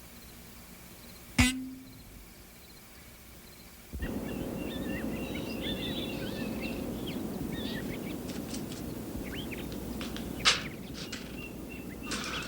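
A single sharp knock about a second and a half in. Then, from about four seconds, a steady outdoor background with many birds chirping in short quick calls, and a sharp click near the end.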